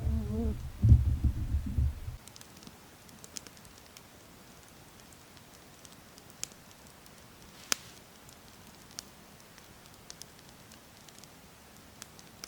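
A low rumble for about the first two seconds, then a quiet background broken by scattered, faint, sharp crackles and clicks, one a little louder near the middle.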